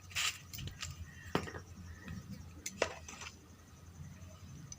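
A spoon clinking and tapping against kitchen dishes a few times while spice powder is spooned out.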